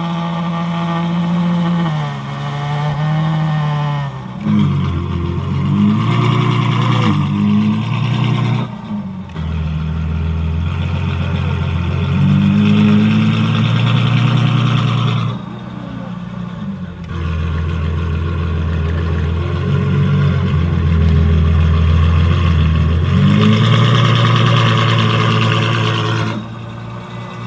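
Ferrari F12 Novitec N-Largo S's V12 engine idling, then revved repeatedly, its pitch climbing and falling in several long rises. It drops back to idle briefly in the middle and again near the end.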